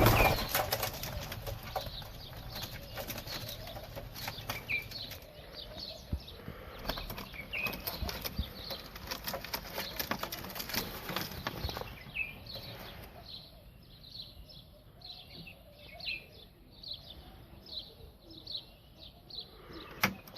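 Birds flapping their wings in repeated bursts of fluttering, with short chirps between them. The flapping thins out after about twelve seconds, leaving a run of small chirps.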